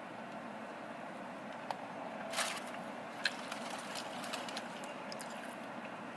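Steady background noise with a few short clicks, and one brief crinkle or rustle about two and a half seconds in.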